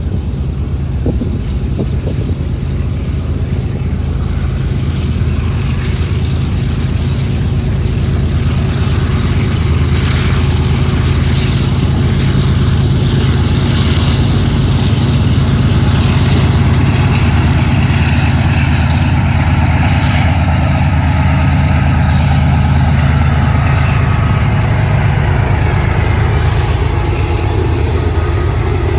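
Intermodal stack container freight train with diesel locomotives running past: a steady low rumble with wheel and rail noise, growing somewhat louder a little before halfway.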